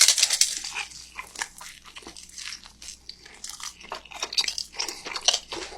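Close-miked bite into a beef roll wrapped in crispy green onion pancake, then chewing with crunchy, crackly clicks. The crunch is loudest at the first bite and thins out as the chewing goes on.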